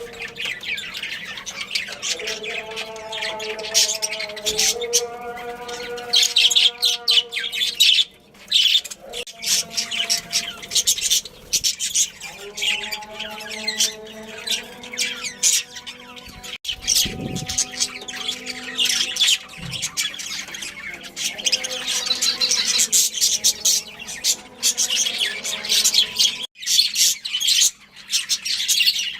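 Budgerigars chattering: a continuous flurry of rapid, high chirps mixed with harsher squawks.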